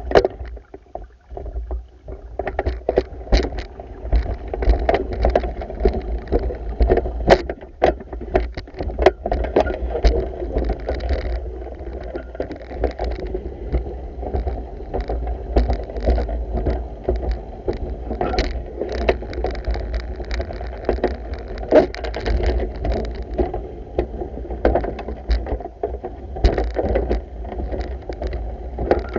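Pool water sloshing and splashing as the vacuum head and pole are worked through it, with frequent small knocks and splashes over a steady low rumble.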